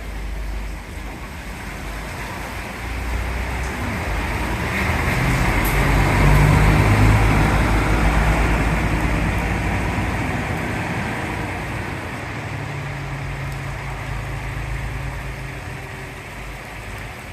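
Bus engine hum and tyre noise on a wet road, growing louder to a peak about seven seconds in and then easing off.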